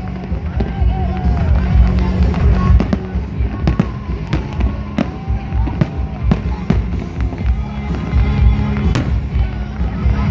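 Fireworks display: shells bursting in quick, irregular succession, over music playing in the background.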